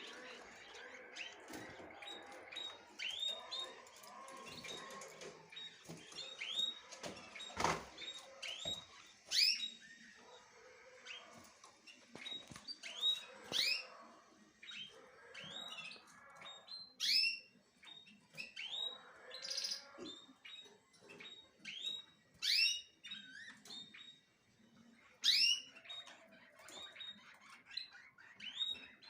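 Small birds chirping: many short, quick rising chirps, irregular and overlapping. A single sharp click sounds about eight seconds in.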